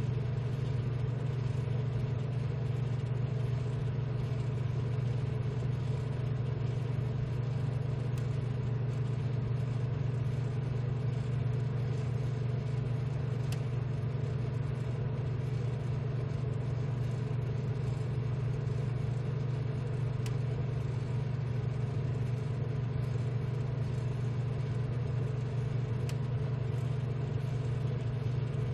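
ZM-R730A BGA rework station running with a steady low hum from its fans and hot-air blowers. A few faint ticks come several seconds apart.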